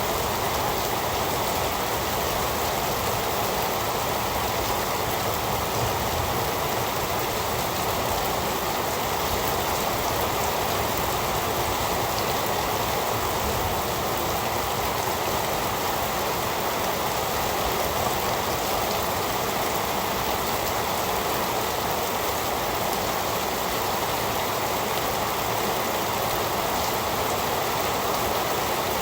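Heavy rain falling steadily, an even hiss of rain with no thunder or other events.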